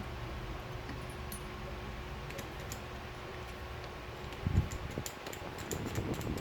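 Light, scattered clicks of small metal parts being handled, as in working on a car lock cylinder, over a steady low hum, with one louder knock about four and a half seconds in and busier clicking and handling after it.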